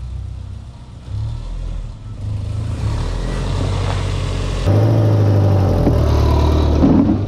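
1999 Subaru Forester's 2.5-litre flat-four engine running as the car drives slowly toward and over the spot, growing louder as it nears and loudest over the last two or three seconds.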